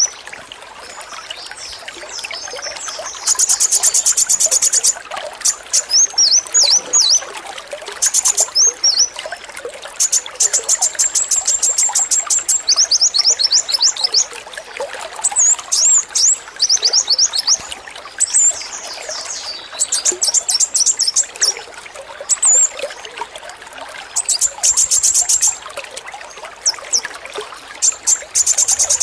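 Male kolibri wulung sunbird singing its high 'AK-47' song: rapid rattling trills in bursts of one to two seconds, broken up by short, sharp down-slurred chirps. A steady trickle of running water sits underneath.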